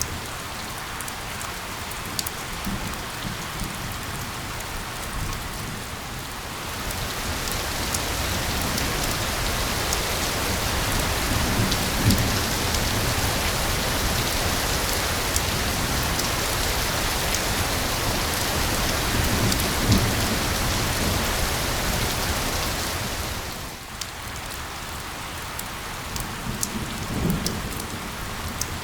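Steady rain falling, with fine drop ticks. It turns heavier and brighter from about a quarter of the way in until near the end, with a few low rumbling thumps.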